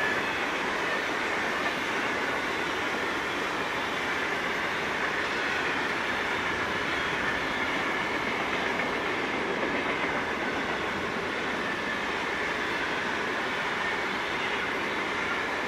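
Freight train of grain wagons rolling past, its wheels running steadily on the rails.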